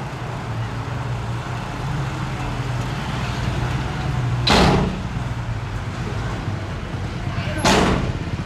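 Diesel engine of heavy earthmoving equipment running steadily with a low hum. Two short, loud hissing bursts cut through it, one about halfway in and one near the end.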